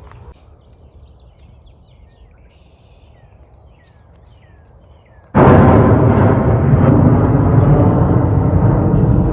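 Birds chirping faintly in short, quick downward notes. Then, about five seconds in, a sudden, very loud ringing with many overtones starts and keeps sounding.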